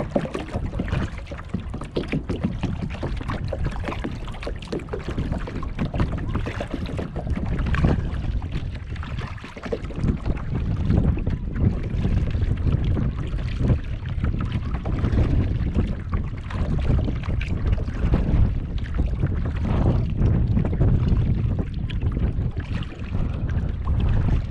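Kayak paddling on open water: paddle strokes splashing and water washing against the hull, with wind rumbling on the microphone.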